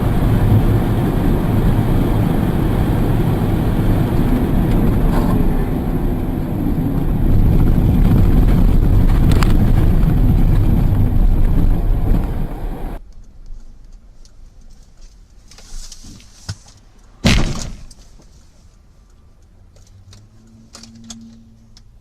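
Steady rumble of a moving car's road and engine noise for about thirteen seconds. It then cuts to a much quieter background, with one sharp bang a few seconds later.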